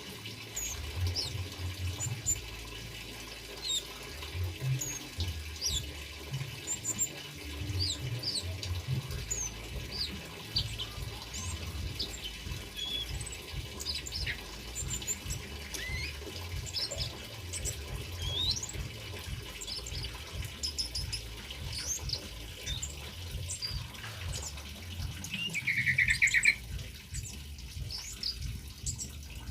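Small songbirds chirping: a male kemade with cabe-cabean and bunga api birds giving many short high chirps and quick sweeping whistles, over a steady trickle of running water. Near the end comes the loudest call, a quick burst of rapid notes.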